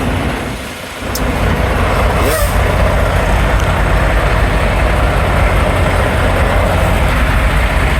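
Diesel semi-truck engine running steadily, a low rumble that dips briefly about a second in.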